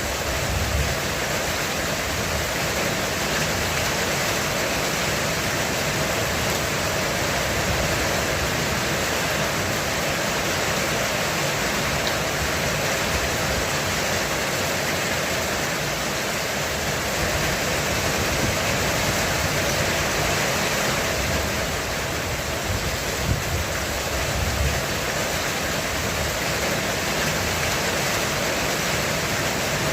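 Heavy rain falling on a roof, a steady dense hiss, with low rumbles of distant thunder swelling underneath a few times.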